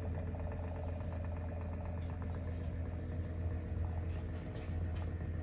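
A steady low hum, like a motor running, with faint ticks over it.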